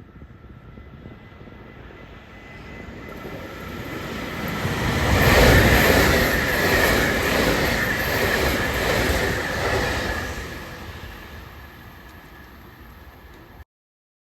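A JR 383 series electric multiple unit passing: it builds up as it approaches, runs loudest for several seconds as the cars go by with wheel and rail noise, then fades away.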